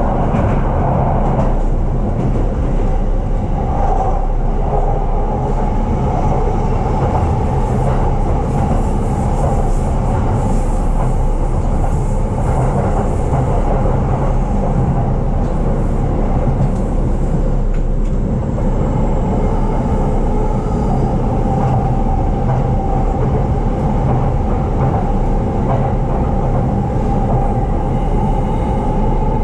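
E233-series electric commuter train running, heard from inside the carriage: a steady rumble of wheels on rail with a steady tone over it.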